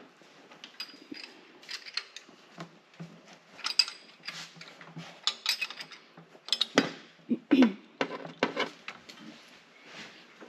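Irregular metallic clinks, clicks and knocks of tools and parts being handled while working on a truck, with a few louder knocks a little past the middle.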